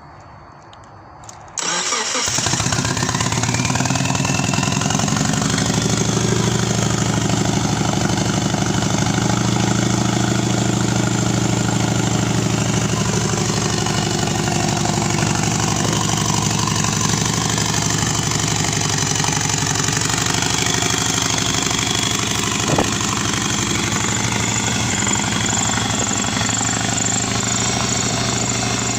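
Subaru EJ255 2.5-litre turbocharged flat-four engine, out of the car, catching about a second and a half in and then idling steadily. It runs loud because no downpipe is fitted after the turbo.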